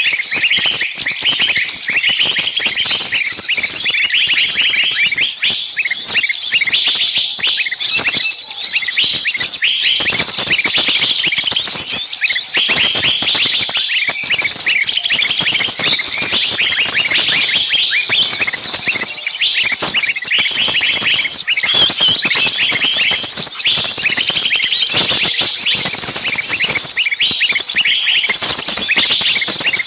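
A dense, loud chorus of small songbirds giving rapid, harsh chattering alarm and distress calls without a break: a bird-lure recording of small birds in a commotion, made to sound like a bird caught and screaming.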